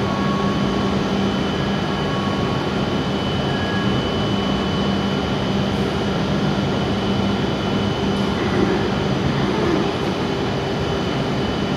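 A stationary E7-series Shinkansen train humming at the platform: its onboard equipment gives a steady hum with a constant high whine over it.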